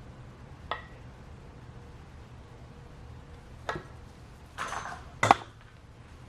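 Metal parts clinking during engine reassembly: a few light separate clicks, a short scrape, then a sharper metallic knock near the end as the cover is worked back onto the cylinder head.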